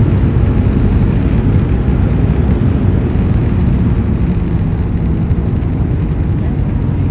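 Loud, steady low rumble of a Boeing 737 landing, easing slightly over the seconds.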